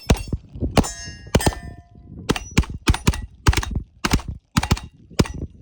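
Rapid pistol shots from two shooters racing on steel plates, about a dozen or more cracks at uneven spacing. Several are followed by the ringing ping of a steel plate being hit.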